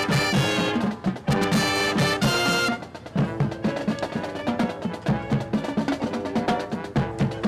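High school marching band playing: the brass section sounds loud full chords that break off about two and a half seconds in, and the drums keep a steady beat underneath and carry on after the brass drops out.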